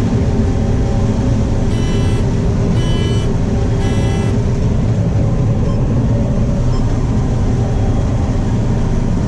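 Steady drone of a combine running as heard from inside its cab, harvesting corn. About two seconds in, a pitched electronic alarm beeps three times, about a second apart.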